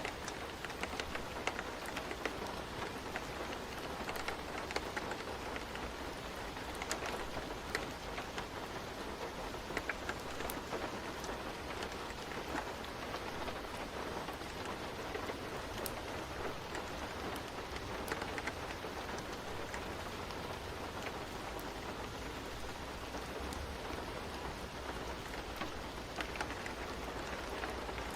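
Steady rain falling, with scattered light clicks throughout.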